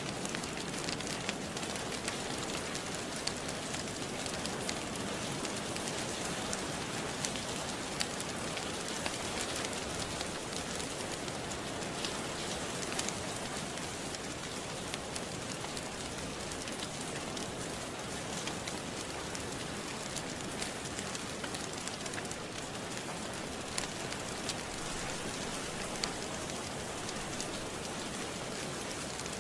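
Steady rain, with scattered sharp crackles and pops from a wood fire.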